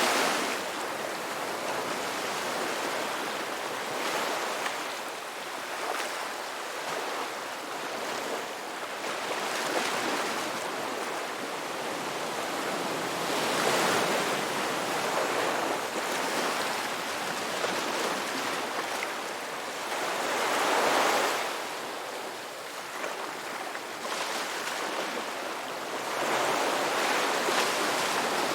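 Ocean waves breaking and washing on the shore, a continuous surf hiss that swells as each wave breaks, about every six to seven seconds.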